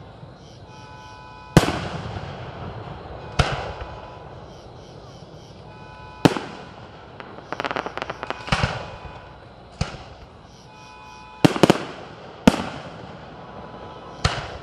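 Aerial fireworks display: sharp shell bursts every one to three seconds, each trailing off in an echo, with a spell of rapid crackling about halfway through and two bangs close together near the end.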